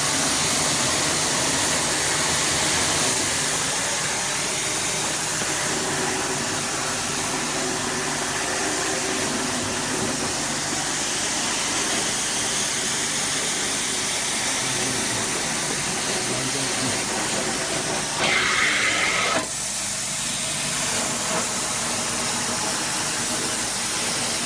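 Truck-mounted carpet cleaning machine running: a steady hiss of suction and spray over a low hum. Once, about eighteen seconds in, a louder, brighter rush lasts about a second and then drops back.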